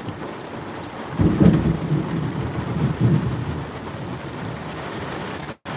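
Close thunder rumbling loudly for about two seconds, starting about a second in and swelling twice, over steady heavy monsoon rain. The sound cuts out briefly near the end.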